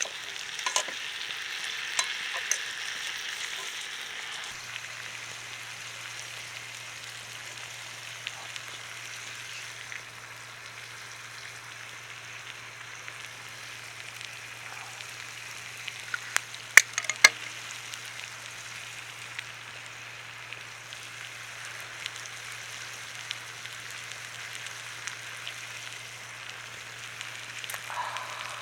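Meat sizzling over a wood bonfire: a steady sizzle with scattered sharp crackling pops, the loudest cluster of pops about two-thirds of the way through.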